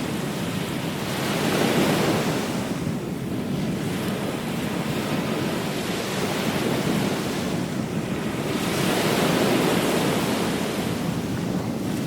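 Ocean waves breaking and washing on a beach, the surf swelling about every few seconds, with some wind on the microphone.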